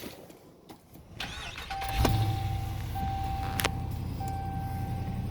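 A Ram pickup truck's engine cranking and starting about two seconds in, then idling steadily, while the dashboard warning chime sounds in repeated steady pulses.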